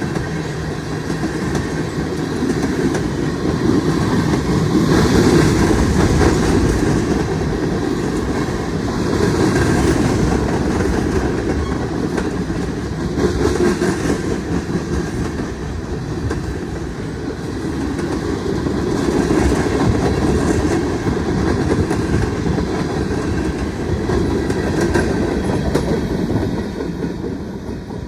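Freight cars of a mixed freight train rolling past, with steel wheels clacking over the rail joints in a steady rumble that swells and eases. The sound drops away near the end.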